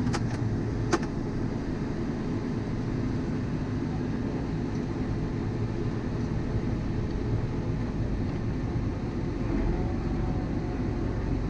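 Heavy farm vehicle's engine running steadily with a low, even rumble, and a single sharp click about a second in.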